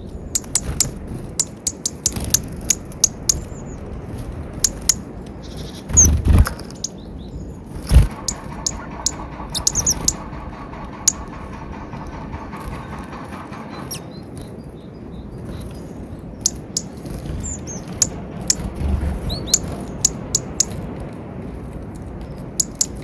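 Small wild birds feeding on peanuts: many quick sharp pecking clicks and short high chirps, with two low thumps about six and eight seconds in.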